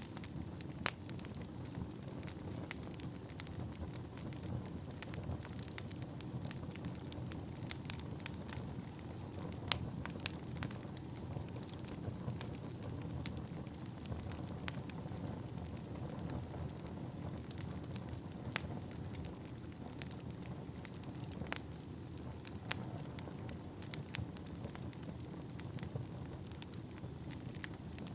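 Wood fire burning in a fireplace: a steady low rumble of the flames with irregular sharp crackles and pops from the burning logs. A faint high whistle slides slightly downward near the end.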